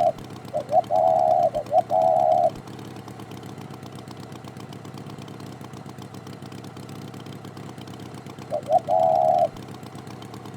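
Engine idling with a steady low hum. Over it, a short pitched call, two quick blips then a held note about half a second long, sounds three times in the first two and a half seconds and once more near the end.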